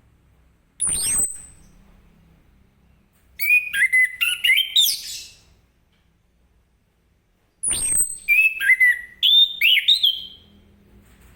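Orange-headed thrush (anis kembang) singing in full song: two bouts, each opening with a loud, high whistle that slides down, then a quick run of varied warbling notes lasting about two seconds.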